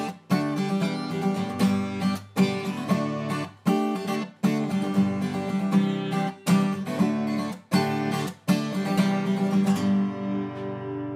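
Background music: a strummed acoustic guitar playing rhythmic chords.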